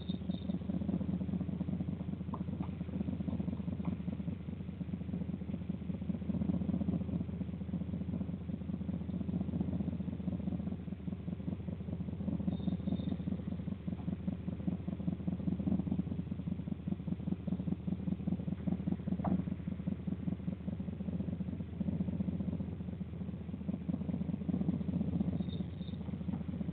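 A vehicle engine idling steadily, a low rumble. Three faint short high chirps come about every thirteen seconds.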